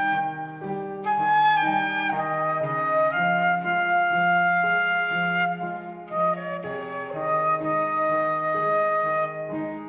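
Solo flute playing a slow melody of long held notes over an instrumental accompaniment.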